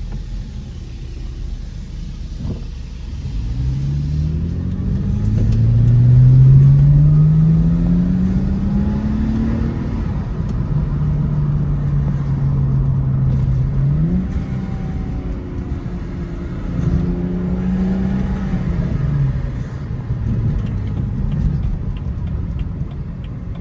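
Car engine and exhaust pulling hard under acceleration: the note climbs steadily for several seconds, holds steady, rises again, then eases off.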